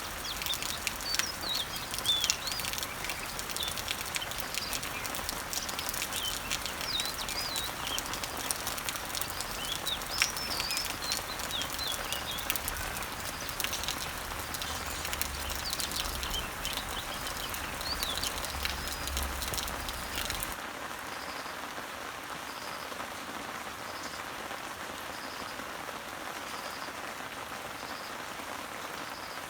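Steady rain falling on garden leaves and trees, with scattered drops pattering, and birds chirping and singing over it. About two-thirds of the way through the birdsong and a low rumble cut off suddenly, leaving an even rain hiss with a faint high note repeating about once a second.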